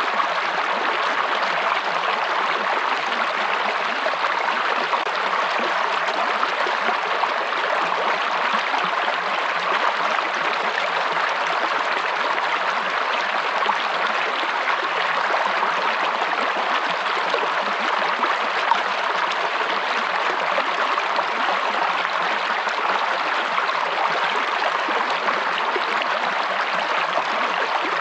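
Running stream water, flowing steadily and evenly without change.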